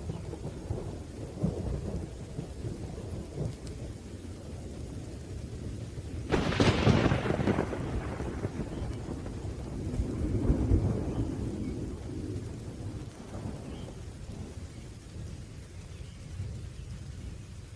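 Thunderstorm: a steady low rumble of thunder under rain, with a sudden sharp thunderclap about six seconds in that fades out over a couple of seconds, then another swell of rolling thunder.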